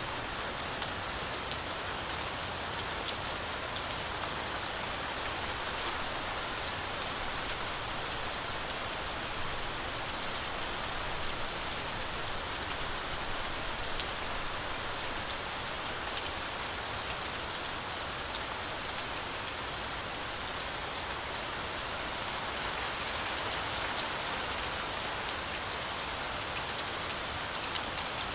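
Heavy, steady rain falling through forest trees, a dense hiss of drops pattering on leaves with many small individual drop ticks.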